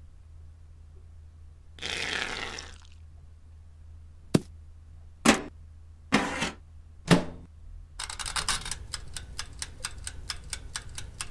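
A brief scrape, then four sharp clunks, then a toaster oven's wind-up timer ticking rapidly and evenly from about eight seconds in.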